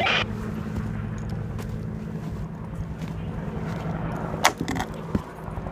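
An engine running steadily, with a sharp click about four and a half seconds in and a couple of fainter ones after it.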